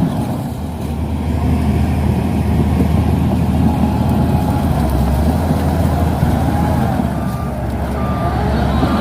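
Shantui DH17C2 bulldozer's diesel engine running under load with a steady low hum and rumble. Near the end there are a few short, evenly spaced high beeps.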